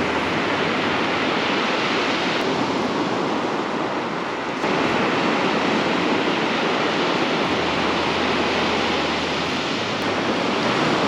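Ocean surf washing onto a beach: a steady rushing hiss of breaking waves. It gets suddenly louder about halfway through.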